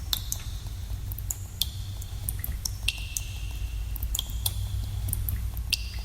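Water drops falling in a cave at irregular intervals, about two a second. Each is a sharp plink with a brief high ringing tail, heard over a steady low rumble of cave ambience.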